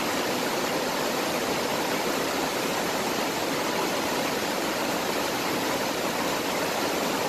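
Swollen mountain stream rushing over rocks, running high with flood water: a steady, loud, even rush of water.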